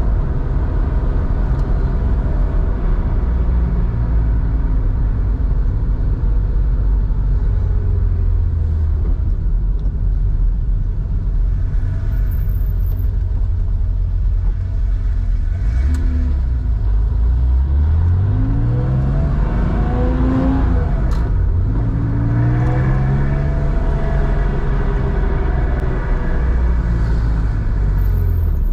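Air-cooled flat-six of a 1987 Porsche 911, enlarged to 3.4 litres and exhausting through a Scart two-into-one-out sport muffler, running while driving. It holds steady at first. About two-thirds through it revs up hard, drops sharply at a gear change, then climbs again.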